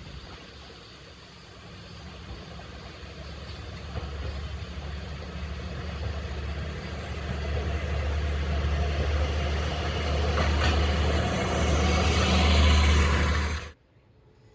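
Diesel railcar approaching: its low engine drone and running noise grow steadily louder, then cut off suddenly near the end.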